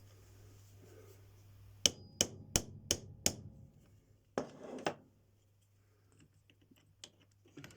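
Hammer tapping a sofa caster part into place: five quick sharp knocks about two seconds in, then two more a little later.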